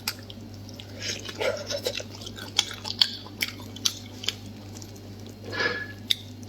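Close-miked wet chewing with repeated sharp lip smacks and sticky mouth clicks as someone eats.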